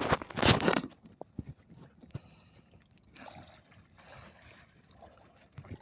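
Water splashing around a small fishing boat, loudest in a burst during the first second, then softer splashes and small knocks.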